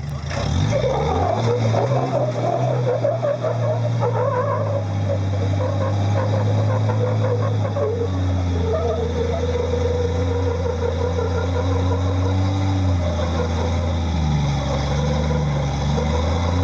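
Off-road vehicle's engine revving and held at raised revs under load as it crawls up a steep rock obstacle. The pitch climbs about a second in and then holds steady, with small shifts in the second half.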